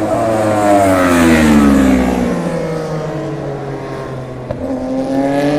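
High-revving racing engine running loud, its pitch falling steadily for about four seconds as it slows, then rising again near the end as it accelerates.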